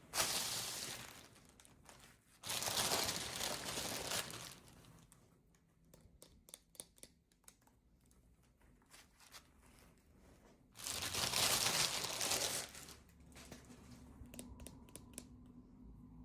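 Packaging crinkled and torn open by hand, in three bursts of rustling, with scattered light clicks and taps in between.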